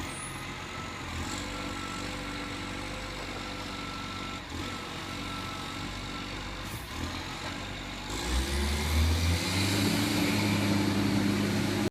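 Rubbish truck's diesel engine running steadily, then revving up about eight seconds in, rising in pitch and getting louder.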